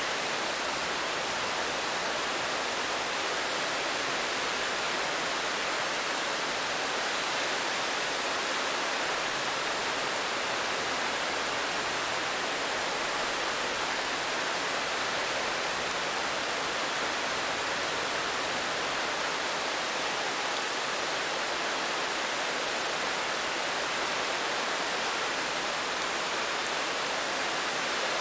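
Steady rain falling, a constant even hiss with no single drops or thunder standing out.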